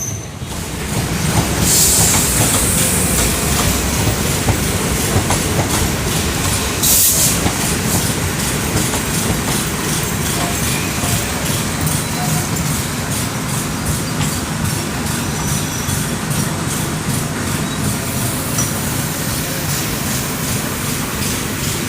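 Train running on the track, its wheels clicking steadily over the rail joints, with two brief rushes of noise about 2 and 7 seconds in.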